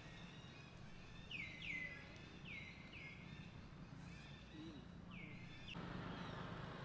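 A bird calling again and again with short notes that slide down in pitch, sometimes two in quick succession, over a steady low background hum. A broad rushing noise comes up near the end.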